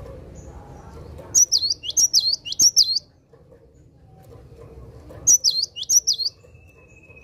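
Cinereous tit (gelatik batu) singing its high, repeated 'wu-cit' whistle: a quick run of about six notes, then after a pause of a couple of seconds about four more.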